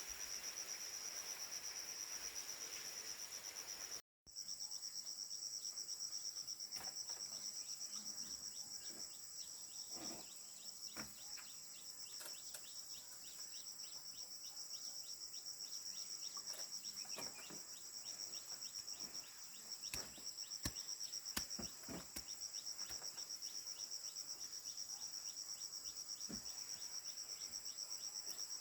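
Insects, crickets or cicadas, chirping in a steady, fast-pulsing high chorus. The chorus breaks off for a moment about four seconds in, and scattered faint knocks and taps come over it.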